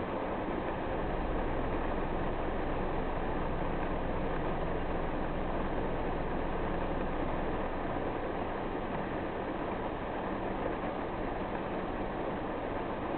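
A car driving through rain: a steady hiss of rain and tyres on a wet road, with a low rumble underneath.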